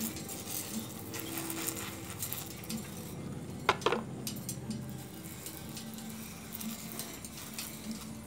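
Hand-pump pressure sprayer misting water onto a lovebird: a steady hiss of spray with crackling drips and patter. Two sharp loud sounds close together a little under four seconds in.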